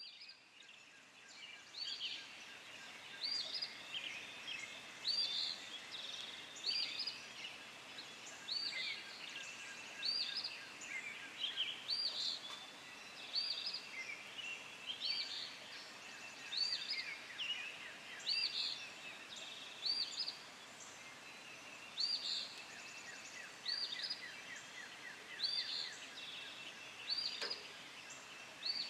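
Wild birds singing. One repeats a short, high call about every second and a half, while other birds add trills and chirps between its calls.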